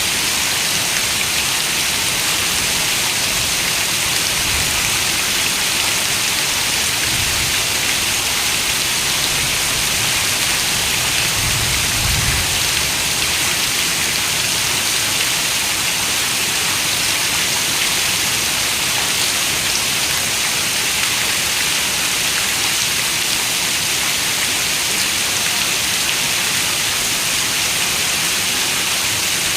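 Steady rain falling, an even, unbroken hiss of many raindrops.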